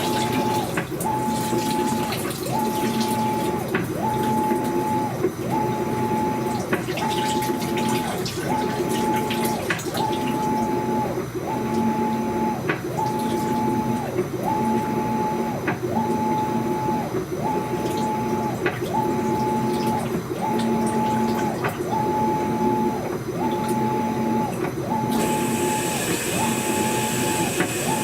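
Brand-new Maytag top-load washing machine agitating: the drive whines in an even on-off rhythm about every one and a half seconds as the agitator swings back and forth, with sharp clicks scattered through it, the clicking noise the owner is complaining of. A hiss comes in near the end.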